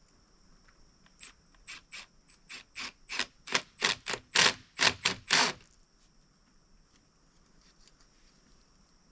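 Ratchet wrench clicking in a run of about a dozen quick back-strokes, getting louder, then stopping about five and a half seconds in, as hose clamps are tightened on a water line fitting.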